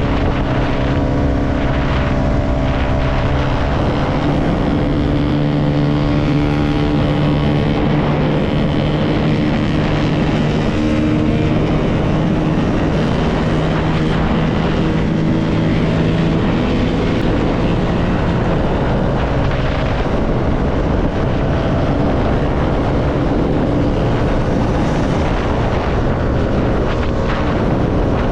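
CFMoto motorcycle engine running under way, its note stepping up and down in pitch several times as the rider changes speed, with wind noise on the microphone.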